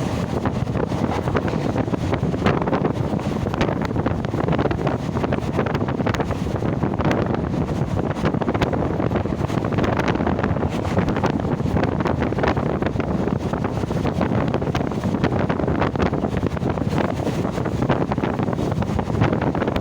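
Steady wind buffeting the microphone over the continuous rumble and rattle of a moving train.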